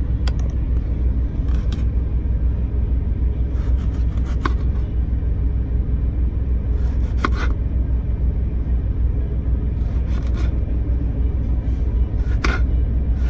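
Steady low rumble of the truck's engine heard inside the cab, with a few short scraping clatters every two or three seconds.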